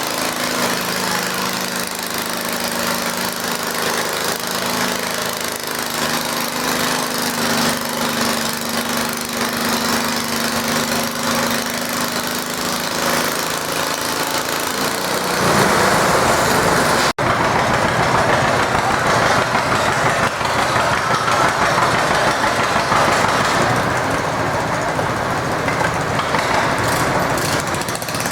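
Small garden tractor engine running steadily, then, a little over halfway through, a louder and harsher engine sound that holds to the end, with a split-second break shortly after it starts.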